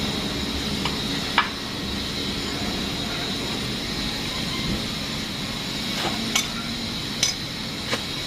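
Metal tools and engine parts clinking during an engine teardown: a handful of sharp knocks, one early and four close together near the end, over a steady background hiss.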